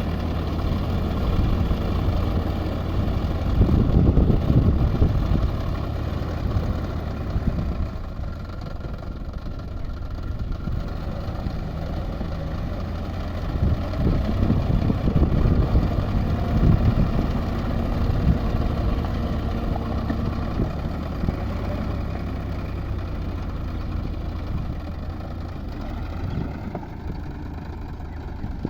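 Diesel tractor engine running steadily, louder for a couple of seconds about four seconds in and again around fifteen seconds in.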